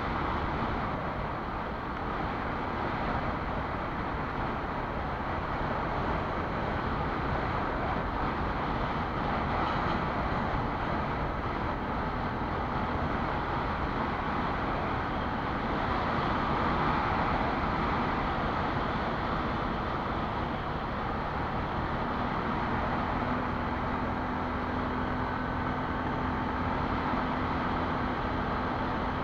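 Quad bike (ATV) engine running steadily while riding, under a constant rush of wind and road noise.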